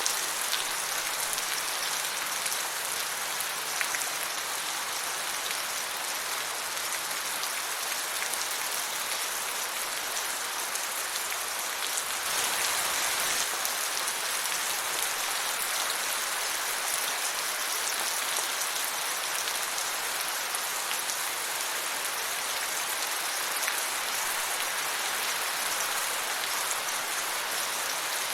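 Steady rain falling, a dense patter of drops on a surface, a little heavier about halfway through.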